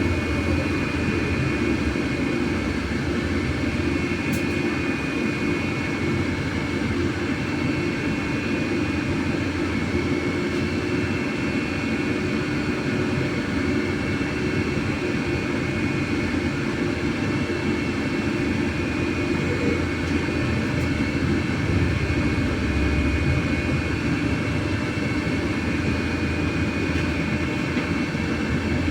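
MAZ-303E10 electric bus running along the road, heard from inside the passenger cabin: a steady low road and running noise with a thin, high, steady whine from the electric drive.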